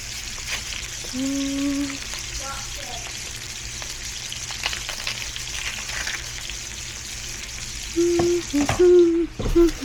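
Pork, shrimp and beef sizzling in a small frying pan with a steady hiss, and a utensil stirring and scraping with light ticks and clinks. The cook finds the burner too weak to get the pan properly hot.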